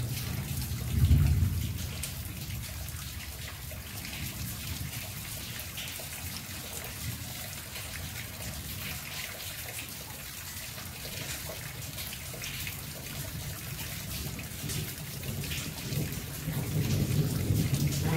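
Steady monsoon rain falling on garden foliage, with many separate drop ticks. A low rumble comes about a second in and again near the end.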